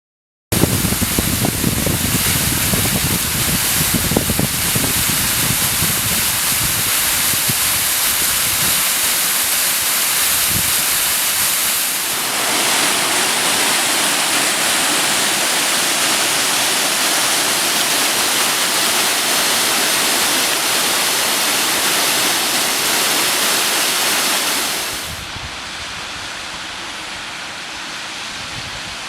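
Waterfall water rushing in a steady, loud roar that starts abruptly, with low rumbling in the first few seconds. The roar brightens about twelve seconds in and turns distinctly quieter near the end.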